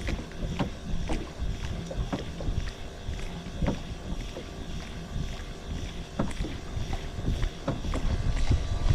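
Sound aboard a small fishing boat at sea: a steady low rumble with irregular knocks and slaps, several a second, typical of water hitting the hull and gear shifting as the boat rocks.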